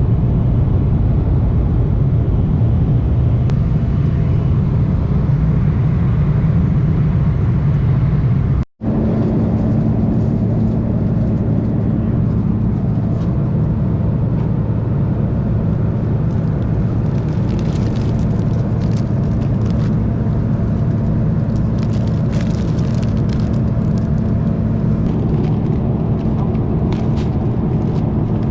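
Steady low rumble of jet airliner cabin noise from the engines in flight. It cuts out abruptly for an instant about nine seconds in, then carries on as a steadier hum with a low droning tone.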